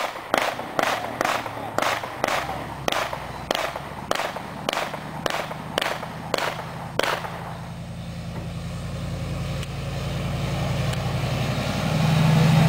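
A fast, evenly spaced run of sharp bangs, about two a second, stopping about seven seconds in. Under and after it a large engine runs and grows louder toward the end.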